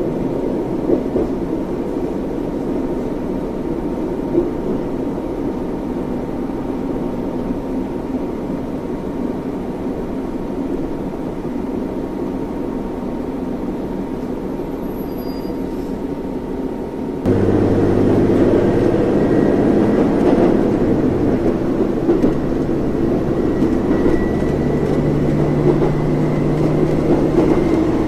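A train running, heard from inside the carriage: a steady rumble with a faint steady whine. About 17 seconds in it cuts abruptly to a louder passage with a steady low drone.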